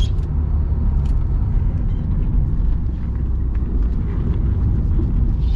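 Honda S2000's JDM F20C inline-four engine running steadily while driving, heard from inside the cabin with the soft top up, together with road noise.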